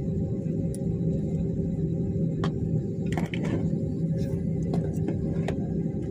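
Steady low drone of an airliner cabin on the ground before takeoff, with a constant hum and a few faint clicks and knocks.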